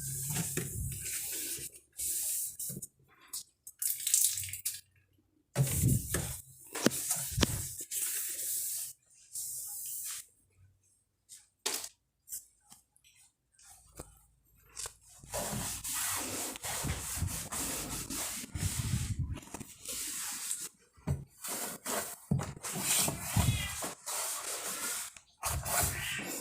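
Wiping and rinsing with water and a cloth, in uneven bursts with short quiet gaps between them.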